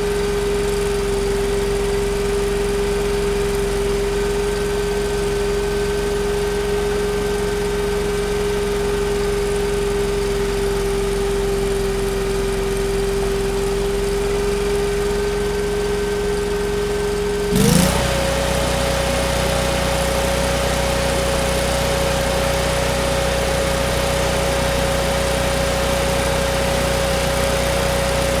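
Factory machine running with a steady hum and one constant tone. About two-thirds of the way through comes a short click, and the tone quickly steps up to a slightly higher pitch and holds there.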